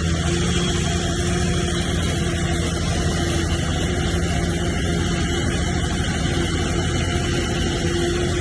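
Heavy earthmoving machine's diesel engine running steadily at an even, unchanging pitch, with no pauses or knocks.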